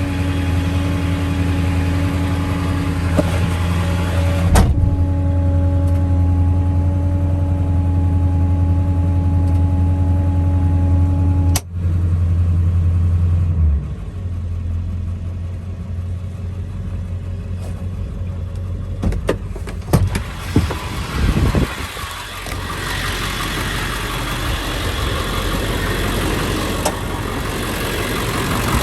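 Ford 7.3L Powerstroke V8 turbo-diesel running steadily with a constant whine over it. About fourteen seconds in it drops to a lower, quieter run. A few clicks and knocks come near twenty seconds.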